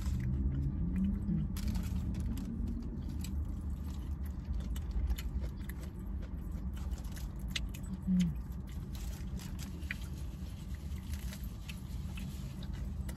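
Close-up eating sounds in a car: chewing and bites of a burger, with light paper-wrapper rustles and a couple of short hummed 'mm's, over a steady low rumble of the car's interior.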